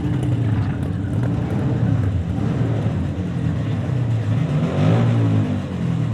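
Several vintage motorcycle engines running at low revs together. About five seconds in, one rises and falls in pitch as it passes close.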